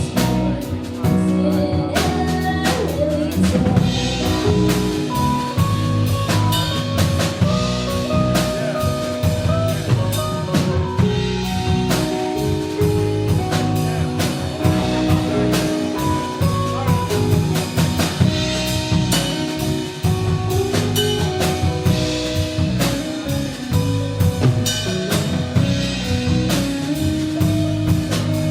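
Live band playing an instrumental passage: a drum kit keeps a steady beat with snare and bass drum hits under sustained, stepping pitched melodic lines.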